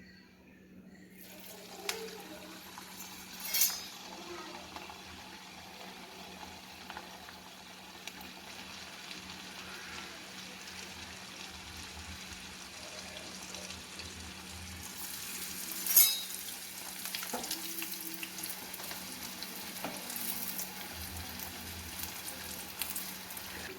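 Tapioca vada patties deep-frying in hot oil, a steady sizzle that starts about a second in and grows louder after the middle. A few short sharp knocks sound over it, the loudest about two-thirds of the way through.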